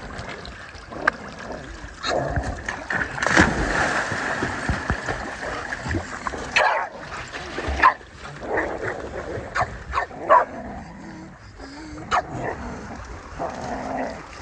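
Dogs barking, yipping and whimpering in short, scattered calls.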